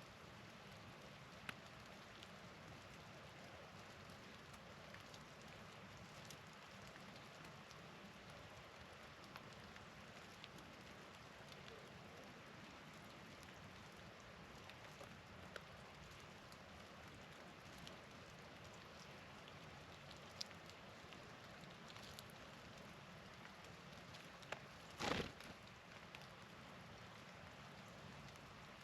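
Faint steady patter of wet snow falling on surfaces, with scattered light ticks. A brief louder knock about 25 seconds in.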